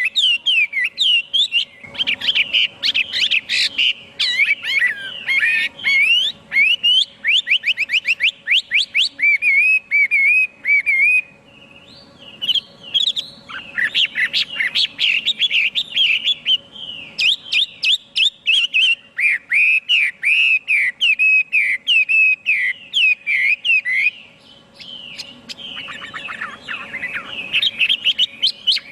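Chinese hwamei singing a long, varied song of rapid whistled phrases and fast trills, with brief pauses about eleven and twenty-four seconds in. A faint steady hum runs underneath.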